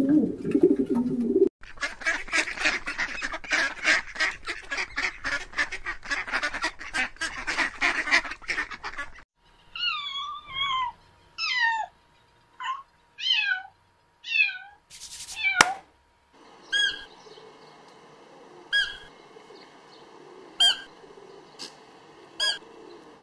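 Waterfowl calling in three separate recordings: first a dense, rapid chatter, then a string of short calls that fall sharply in pitch, then short calls about every two seconds over a steady background.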